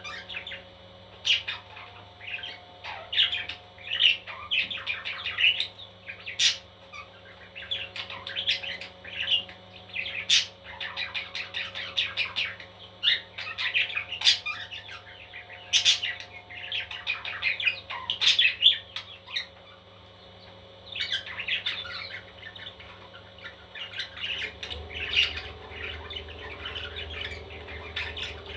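Baby parrots chirping and squawking in repeated bursts of rapid short calls, with brief pauses between them and a few sharp clicks.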